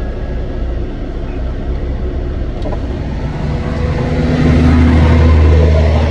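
Semi truck's diesel engine running with a continuous low rumble; about four seconds in it gets louder, holding a steady note, as under load.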